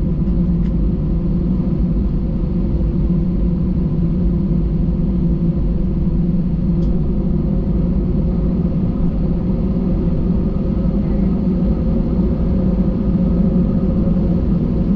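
Steady low rumble of an Airbus A320's engines and airflow heard from inside the passenger cabin, holding an even level throughout with a faint steady hum above it.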